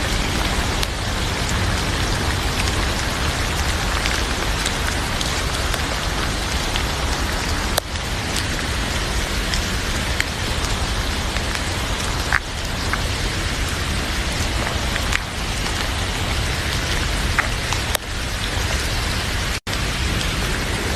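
Heavy rain falling steadily, with a few sharp pops from a crackling wood fire in a fireplace. The sound drops out for an instant near the end.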